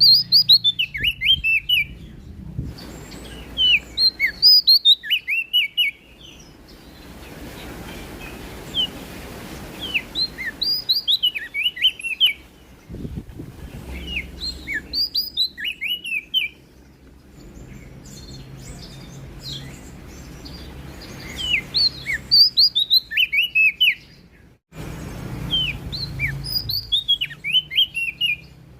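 Prenjak daun, a small songbird, singing: short phrases of rapid, high, sweeping chirps, each about two seconds long and repeated every few seconds.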